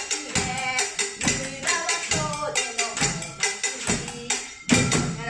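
A song with a steady beat, with household items drummed along as Japanese percussion: pots struck with sticks as taiko drums, a grater scraped as the sasara and a small bowl or lid tapped as the kane bell. The strikes come about two to three a second, with a louder hit near the end.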